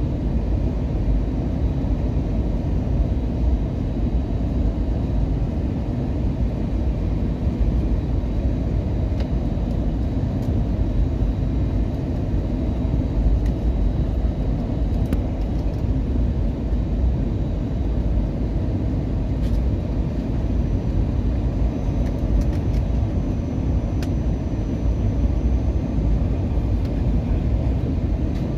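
Steady low rumble of engine and airflow noise inside the cabin of a British Airways Airbus A320-232 with IAE V2500 engines, on approach to land.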